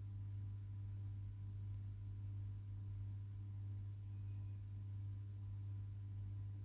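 A steady low hum with fainter evenly spaced overtones, unchanging throughout.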